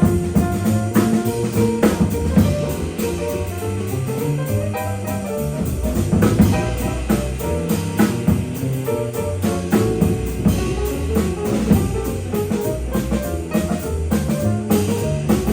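Small jazz combo of alto saxophone, guitar, piano, bass and drum kit playing with busy, fast-moving melodic lines over a walking bass and drums.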